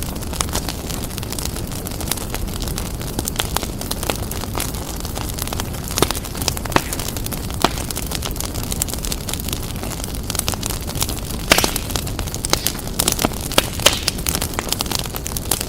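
Wood fire in a fireplace crackling, with frequent sharp pops over a steady low rumble of the flames; the pops come thicker and louder near the end.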